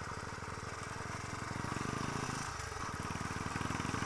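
Motorcycle engine running under way, its firing a fast, steady low beat that grows a little louder about halfway through.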